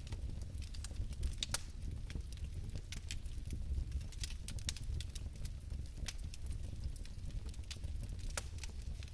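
Bio-fireplace flame burning with a low steady rumble and scattered sharp crackles.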